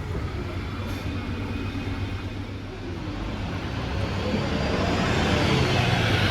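A road or rail transit vehicle passing close by: a low running rumble that swells about four seconds in, with a faint rising and falling motor whine over it.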